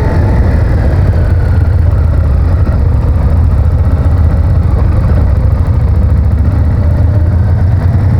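Honda VTR1000F's V-twin motorcycle engine running steadily, a loud, even low rumble with no clear revving.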